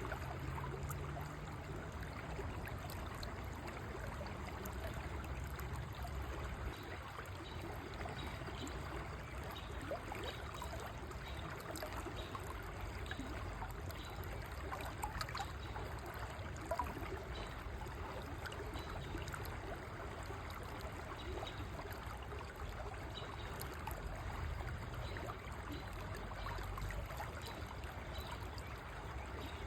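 River water flowing steadily, with a continuous rush and small trickles and splashes throughout.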